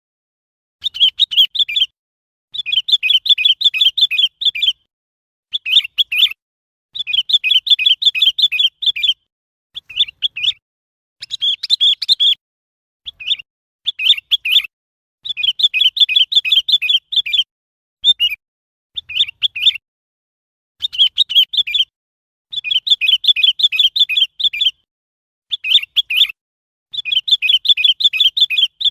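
Sooty-headed bulbul calling: bursts of rapid, bubbling chirped notes, about fourteen phrases each half a second to two seconds long, separated by short silent gaps.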